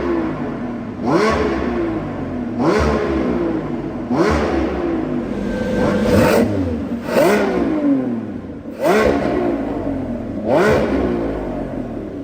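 Sports car engine revved hard about seven times in a row, each rev rising sharply and then falling back, with a little under two seconds between revs.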